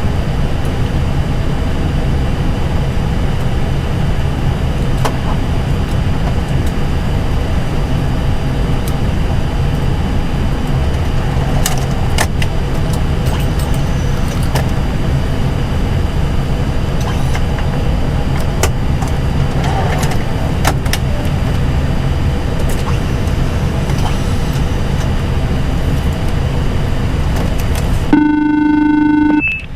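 Steady hum and airflow rush in an Airbus A320 cockpit parked at the gate, with the APU supplying bleed air, and a few light clicks. Near the end the rush cuts out and a short electronic tone sounds for about a second.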